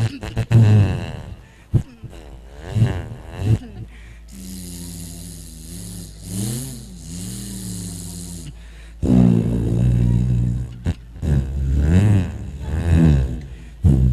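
A man imitating a bus with his voice: low, pulsing engine-like mouth sounds that swell and bend up and down in pitch. From about four to eight seconds there is a long hiss over a wavering tone, and after that the pulsing engine imitation returns.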